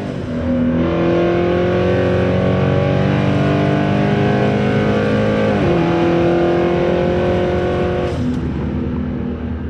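Car engine running at steadily held revs. Its pitch steps down slightly about halfway through and eases off near the end.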